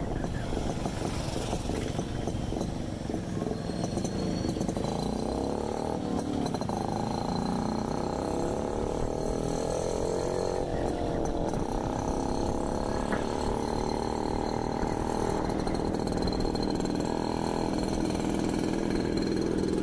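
A motor vehicle's engine running while on the move, its note slowly rising and falling with speed, over steady road noise.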